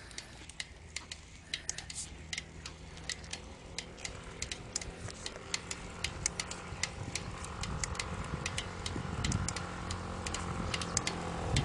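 Shimano PD-A600 clipless bicycle pedal making an abnormal noise: rapid, irregular sharp clicking several times a second, the fault that appeared after two months of use. A low rumble under it grows louder toward the end.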